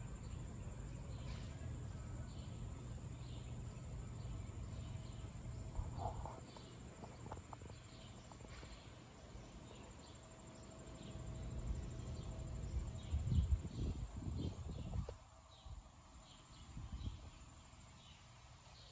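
Insects, likely crickets, chirping faintly in short repeated calls over a low outdoor rumble that swells for a few seconds in the second half.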